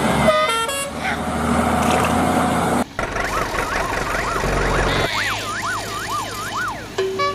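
Cartoon sound effects: a vehicle sound with short musical blips. From about three seconds in comes a siren-like wail whose pitch rises and falls over and over.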